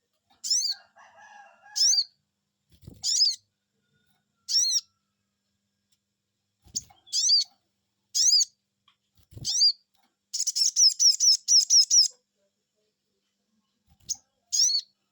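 Sogon bird calling 'cuiit cuiit': short, high whistled calls, each a few quick downward-sliding notes, repeated every second or so. About ten seconds in comes a fast trill of rapid notes lasting about two seconds. A few faint low thumps sound in between.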